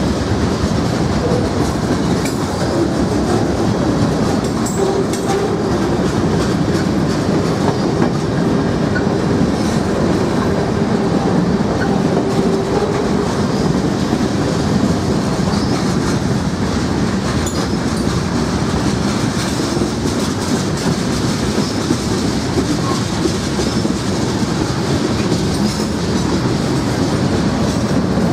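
Norfolk Southern freight train cars rolling past, a steady loud rumble of wheels on rail with clickety-clack over the rail joints.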